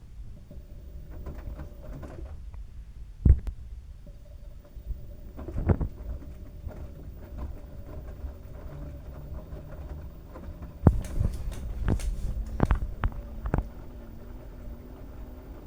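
LG washing machine drum turning a load of wet towels: a low rumble with irregular thuds as the heavy load shifts and drops, including a cluster of knocks past the middle. A faint motor tone rises slowly in pitch near the end as the drum speeds up.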